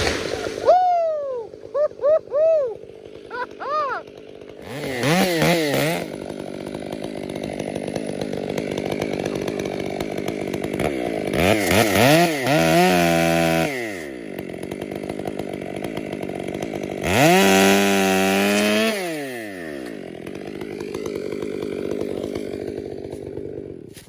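Gas chainsaw idling, blipped several times, then revved up hard three times and let fall back to idle each time; it is shut off just before the end.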